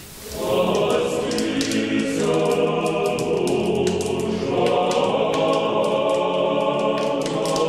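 Choir singing slow, long-held chords that change every couple of seconds, coming in just after the start.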